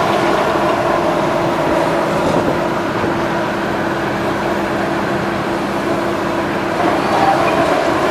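Heavy machinery running steadily, a constant engine noise with a held whine.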